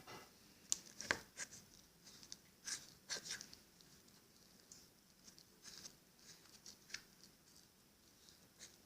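Homemade glue slime being worked: faint, irregular soft clicks and sticky squelches, a few every second.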